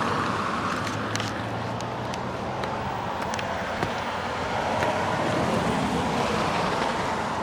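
Steady road traffic noise with a few faint clicks spaced about two thirds of a second apart.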